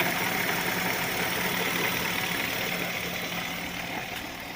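BMW X5's M62 V8 running at idle, with a rattle from a worn used viscous fan clutch that keeps making noise until it spins up.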